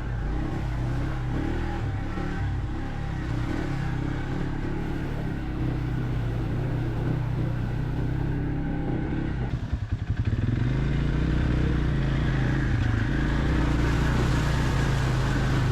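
ATV (quad) engine running under way on a forest trail, a steady hum that drops briefly to a low chugging about ten seconds in, then picks up again.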